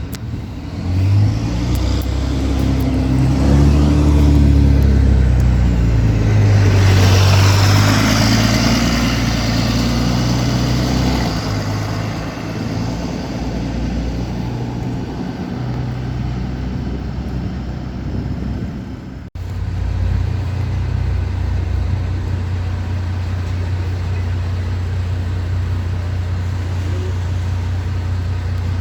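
MAN 18.220 Transbus ALX300 bus's diesel engine pulling and accelerating, its pitch rising and falling through the gears over the first dozen seconds, then running steadily after a brief dropout about two-thirds in. The exhaust is oddly louder than usual.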